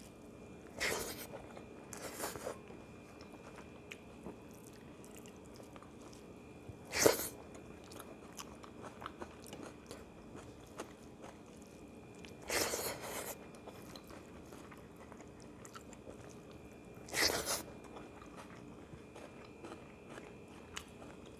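Close-up eating sounds from a man eating rice and chicken curry by hand: chewing and mouth smacks in about five short loud bursts a few seconds apart. A faint steady hum lies under them.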